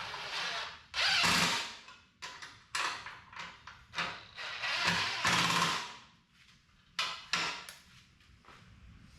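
Cordless drill run in short bursts on the bolts and nuts of an aluminium door valance, with the two longest runs about a second and five seconds in, and metal parts clicking and knocking between them.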